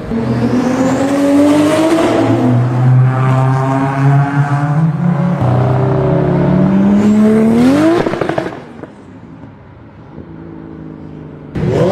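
Performance car engine accelerating hard, its pitch climbing steadily for several seconds and rising sharply just before the sound drops away about eight seconds in. Quieter engine sound follows, then a loud rev near the end.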